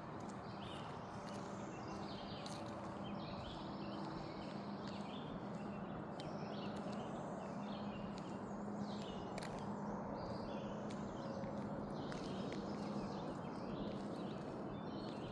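Footsteps walking along a road, with birds calling in the background.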